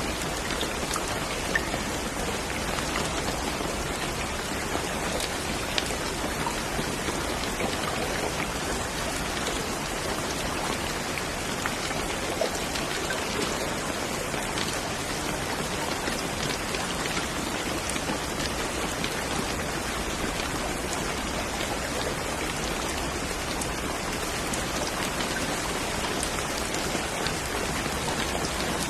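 Steady rain falling, a continuous hiss with the patter of individual drops hitting a surface.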